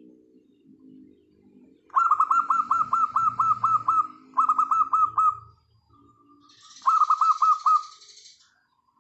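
Zebra doves calling: soft low cooing, then three loud bursts of quick, evenly repeated notes. A short rustle comes near the end.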